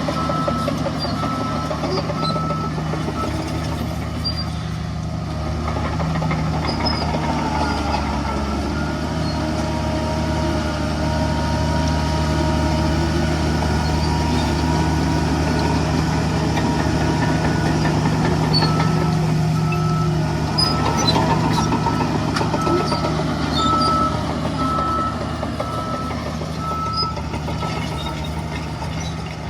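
Diesel engines of heavy earthmoving machinery running steadily, with a reversing alarm beeping about twice a second near the start and again near the end.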